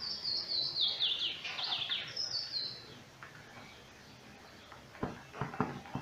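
A songbird singing: a quick run of clear notes stepping down in pitch, then a shorter falling phrase. A few sharp clicks near the end as the blender's wiring and housing are handled.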